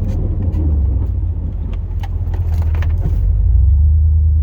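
The 8.1-litre big-block V8 of a 2002 Chevrolet Silverado plow truck running steadily, heard from inside the cab. A scatter of light clicks and rattles comes through in the first three seconds, and the engine grows a little louder near the end.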